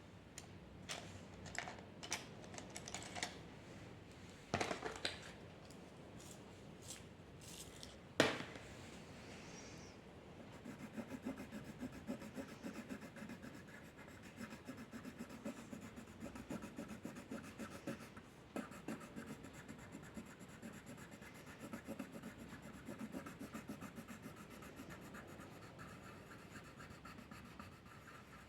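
Drawing on paper: scattered taps and small clicks at first, with one sharper click about eight seconds in, then from about ten seconds in a steady run of rapid, repeated scratchy strokes of the drawing tip across the paper.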